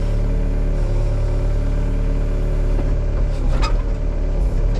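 Excavator's diesel engine running steadily under work, heard from the cab, with a brief sharp crack about three and a half seconds in.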